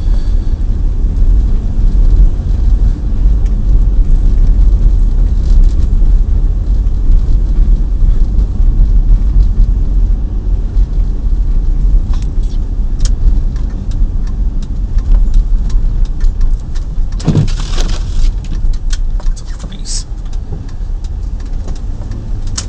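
Chevrolet Tahoe driving through blizzard snow, heard from inside the cabin: a steady low rumble of engine and tyres on snow, with a few brief clicks and a short falling sound about two-thirds of the way through.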